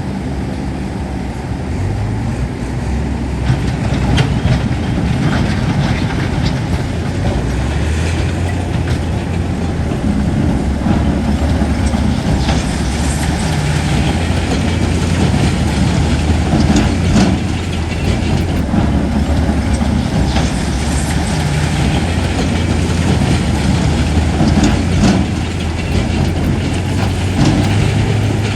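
Heavy diesel earthmoving machinery working, its engine running steadily with small shifts in pitch, and scattered metallic clanks and knocks throughout.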